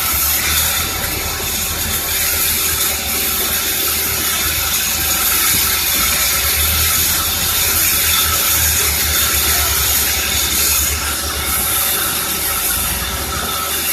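Sawmill machinery running steadily: a continuous loud hiss with a low, pulsing hum underneath.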